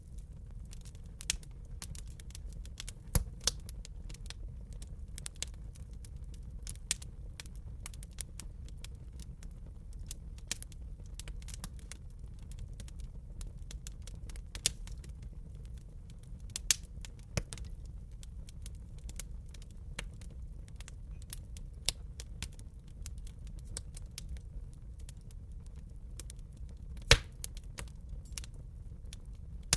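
Wood fire crackling: irregular sharp pops and snaps over a steady low rumble, with one loud snap near the end.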